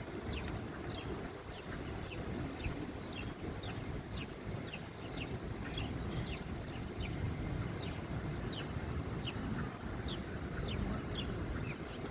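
Sparrows chirping, a steady stream of short, quick falling chirps several times a second, over a low background rumble.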